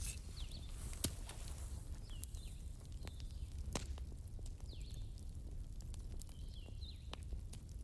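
Wood fire crackling in a fireplace: sharp pops and snaps over a low steady rumble, with faint short high whistles every couple of seconds.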